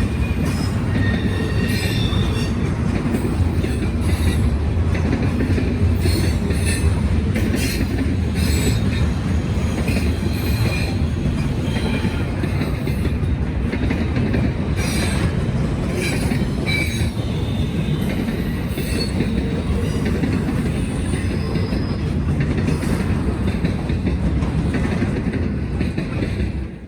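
Norfolk Southern freight train rolling past: a steady rumble of steel wheels on rail, with frequent short wheel squeals and clicks.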